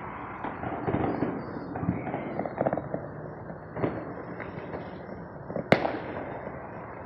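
Neighbourhood fireworks and firecrackers going off: scattered pops and bangs, with a quick run of crackling about two and a half seconds in and one sharp, loud bang late on.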